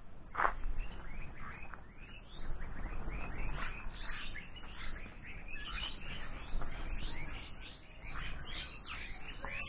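Birds chirping and calling repeatedly in quick short notes, with one louder call about half a second in.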